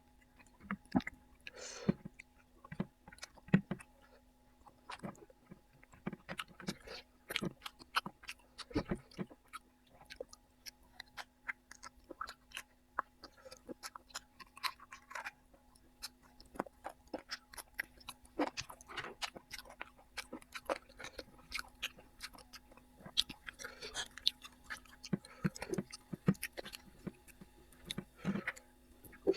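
Close-miked eating: a man chewing mouthfuls of food, with many irregular small wet mouth clicks and smacks, over a faint steady hum.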